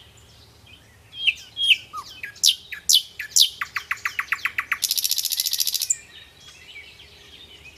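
Songbirds chirping and singing: a run of short falling whistled notes, then a fast even trill and about a second of a very rapid high trill, with fainter chirps after it.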